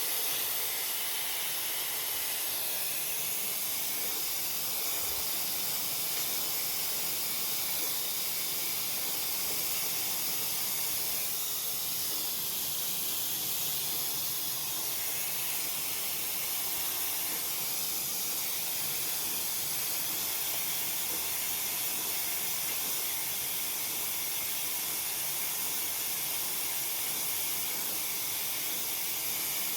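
Hair dryer running steadily, a constant rushing hiss of air.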